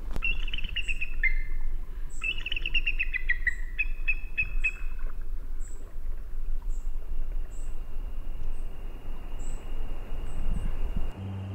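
Birds singing: trilled, falling phrases in the first half, with a short high call repeating about once a second, over a steady low rumble. The birdsong and rumble cut off abruptly near the end, replaced by steady low tones.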